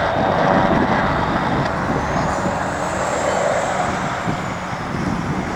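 Helicopter flying overhead, its rotor and engine running steadily, with a faint high whine that rises and then falls midway.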